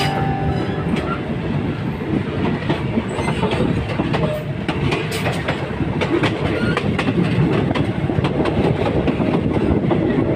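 Passenger train running along the track: a steady rumble with wheels clacking over the rail joints.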